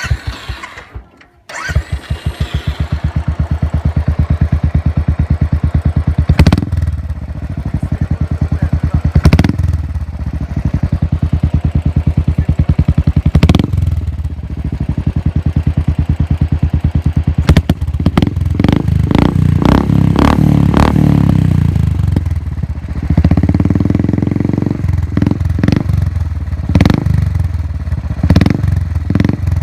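Royal Enfield Thunderbird 350X's 346 cc air-cooled single-cylinder engine, breathing through a Red Rooster aftermarket silencer, starting up about a second and a half in and then idling with a steady, even thump. The throttle is blipped several times, short sharp revs at intervals, with a quicker run of blips near the end.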